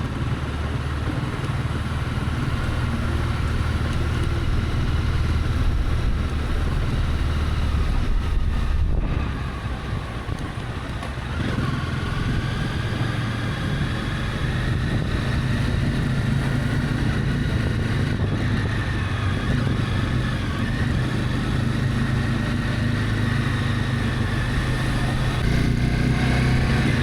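Honda CB300F single-cylinder motorcycle engine running steadily on the move. The engine note drops briefly about nine seconds in as the throttle eases, then picks up again.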